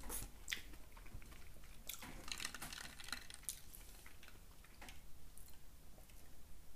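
A person chewing food with the mouth, faintly, with irregular small wet clicks and smacks.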